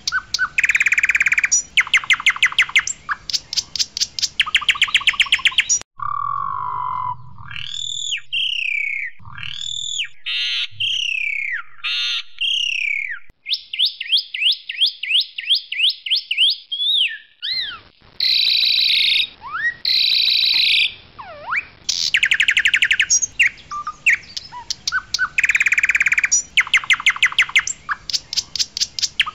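Asian pied starling (jalak suren putih) singing loudly: rapid rattling trills, clear whistled up-and-down glides, a run of quick rising notes and a few harsh calls, with the rattling trills coming back near the end.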